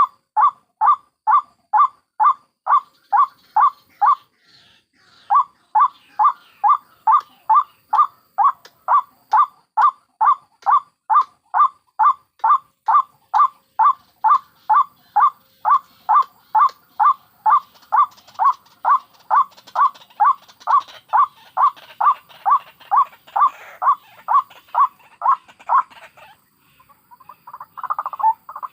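White-breasted waterhen (ruak-ruak) calling in a long, fast, even series of loud repeated notes, about two and a half a second, with one short break about four seconds in. Near the end the series stops and a denser, jumbled burst of calling starts.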